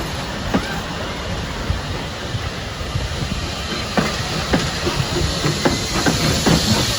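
A train running on rails: a steady rumble and hiss with wheel clicks over rail joints, the clicks coming more often in the last few seconds.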